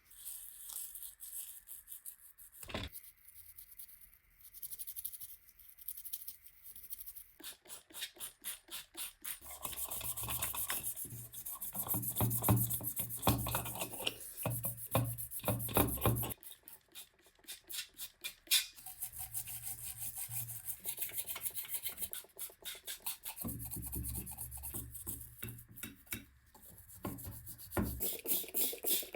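Rapid back-and-forth rubbing strokes on a hard surface, coming in bursts with short pauses between them, loudest in the middle and again near the end.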